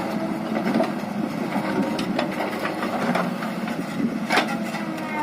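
Backhoe loader's diesel engine running steadily, with scattered metallic knocks and clanks, the loudest a little over four seconds in.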